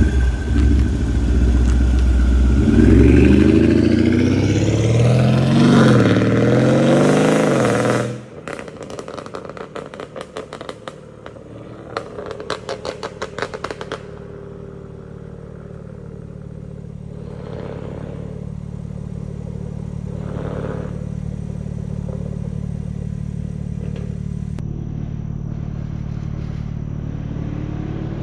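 Mercedes CLS550's twin-turbo V8 with downpipes, accelerating hard with the revs climbing through the gears for about eight seconds. It then lifts off into a string of crackles and pops on the overrun, which die away after a few seconds into a steady low engine drone that slowly grows louder.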